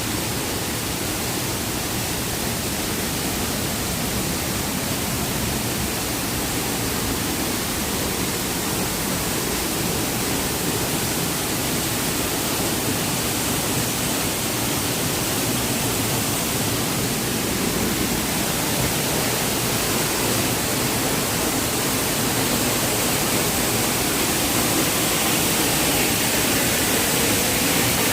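Giessbach Falls rushing: a steady, dense roar of falling water that grows slowly louder.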